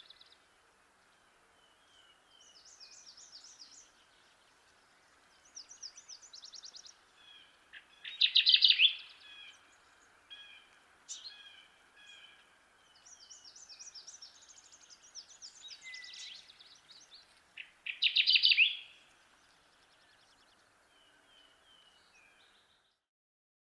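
Kirtland's warbler singing, two loud, short song phrases about ten seconds apart, with fainter, higher rapid trills and short chip notes in between.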